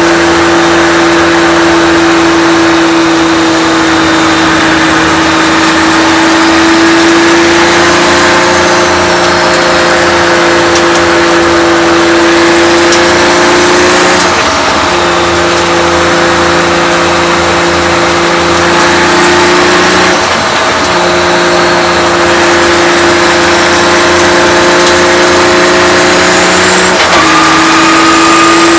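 Nissan 240SX's engine running hard at high, fairly steady revs, with three short breaks in the note where it is shifted up a gear: the pitch dips briefly and then carries on.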